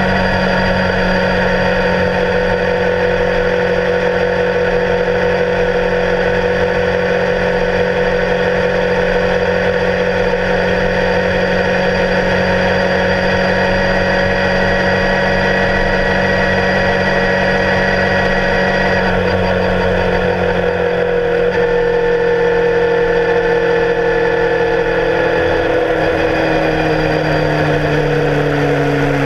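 Kawasaki Ninja sport motorcycle's engine and exhaust running steadily at highway cruising speed, heard close to the muffler with constant wind and road noise. Over the last few seconds the engine note falls in pitch as the bike slows.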